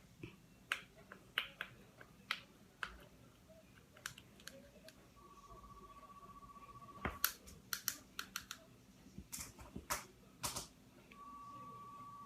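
Spoon clicking against a bowl as jam is stirred, in scattered light taps. An electronic beep tone sounds twice for about two seconds each, a little after midway and near the end.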